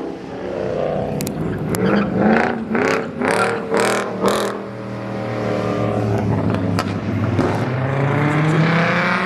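Car engines revving and accelerating, with a run of quick sharp rev blips about two to four seconds in and an engine note that climbs near the end.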